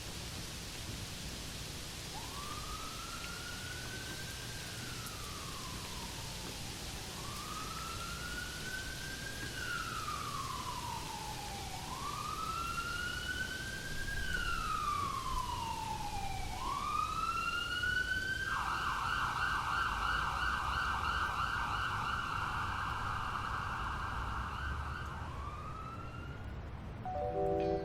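Emergency vehicle siren passing in the distance, first in a slow wail that rises and falls about every five seconds, then switching to a fast yelp before it fades. Steady rain hiss runs underneath.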